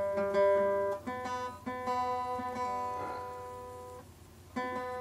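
Guitar strings plucked and strummed chord by chord and left to ring, checking whether the guitar is in tune. The chords fade out about four seconds in, and a new chord is struck just before the end.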